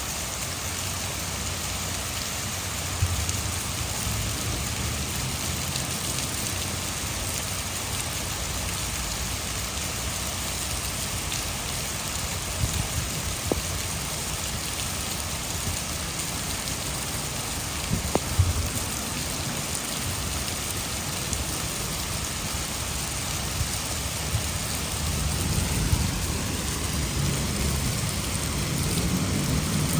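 Heavy rain falling steadily, blended with rushing water from a hydroelectric dam. A few sharp drop hits stand out, and a low thunder rumble swells near the end.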